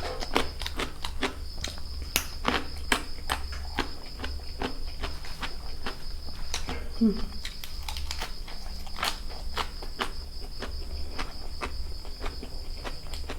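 A steady high trill of crickets, with many irregular crisp clicks of crunching through raw vegetables while chewing. A short, low, falling sound comes about halfway through.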